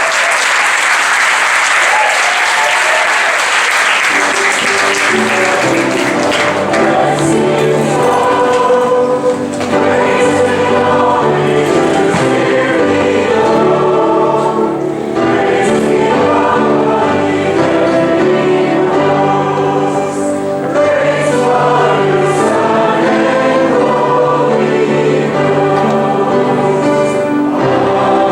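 Applause fades out over the first few seconds, then a choir sings with musical accompaniment.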